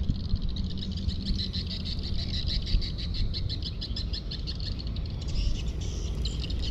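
A small bird calling in a rapid, even trill of high chirps, about nine a second, breaking into scattered chirps near the end, over a low rumble.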